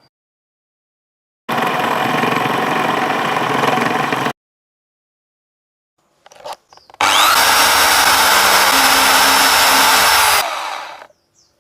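A power tool or small electric motor runs in two bursts of about three seconds each, starting abruptly. The second burst opens with a brief rising whine and tails off at the end.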